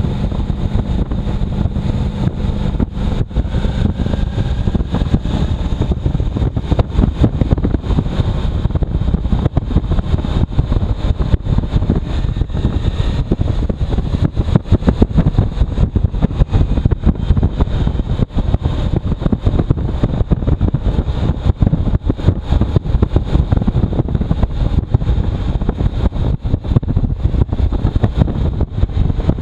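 Strong wind buffeting the microphone of a moving motorcycle, with the engine running steadily underneath the gusty rumble.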